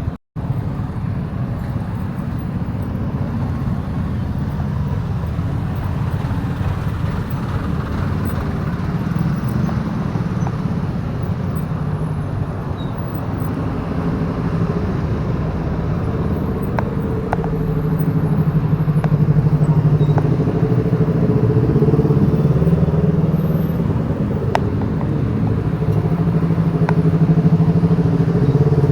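Motorcycle engine running while riding, over steady wind and road noise; from about the middle on the engine note grows louder and holds a steady pitch.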